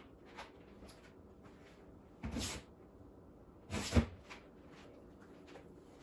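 A few small clicks and two louder knocks, about two seconds and four seconds in; the second is short and the loudest.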